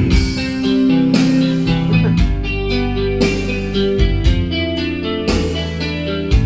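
A band playing an instrumental passage with no singing: guitar over bass and drums, with a steady beat of drum hits.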